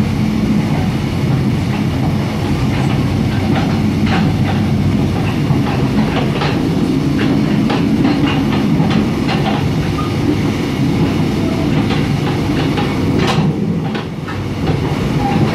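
Mugunghwa-ho passenger coach running at speed, heard from inside the coach: a steady low rumble of wheels on rail, with scattered sharp clicks as the wheels cross rail joints, most of them in the middle of the stretch.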